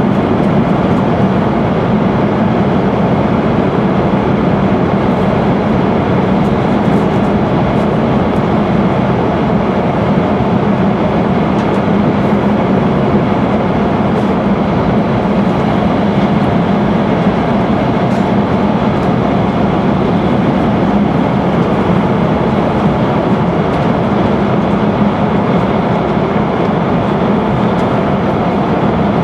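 Steady running noise of an E5 series Shinkansen heard inside the cabin at speed through a tunnel: a continuous loud rumble with a low hum and no breaks.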